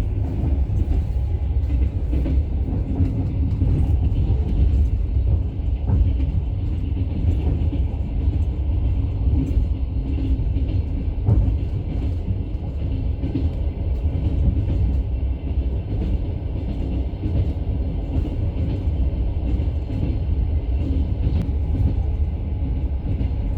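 Steady low rumble of a moving vehicle heard from inside, with a couple of faint clicks.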